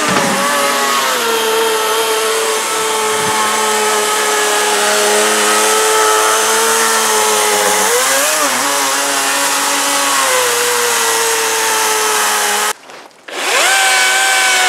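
Cordless battery chainsaw running and cutting wood, with a steady motor whine. The pitch dips briefly about eight seconds in as the chain takes load. It cuts out suddenly near the end, then starts again.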